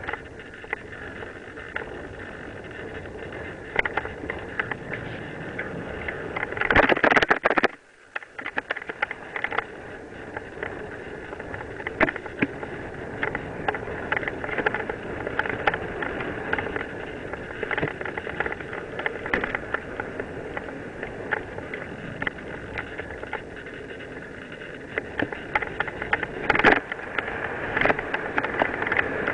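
Mountain bike riding downhill on a dirt and gravel trail: tyres crunching and the bike rattling and clicking over bumps. About seven seconds in there is a louder rush that cuts off suddenly.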